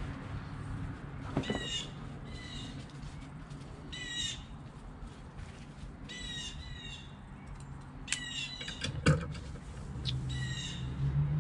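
Bird calls outdoors: short, harsh high notes coming in small groups of two or three every couple of seconds. A single sharp knock sounds about nine seconds in.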